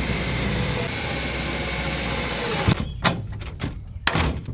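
A steady mechanical noise with a faint, slowly falling whine stops suddenly about two-thirds of the way in. It is followed by a handful of sharp clicks and knocks.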